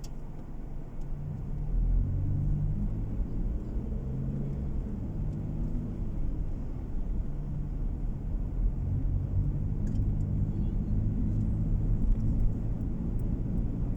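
Low road and engine rumble inside a moving car's cabin, growing louder about two seconds in and then holding steady.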